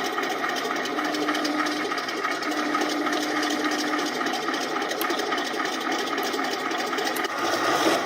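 Simulated tank engine sound from an Elmod Fusion ECO sound unit, played through the RC model KV-2's speaker. It runs steadily, with a short steady tone twice in the first half, and gets louder near the end.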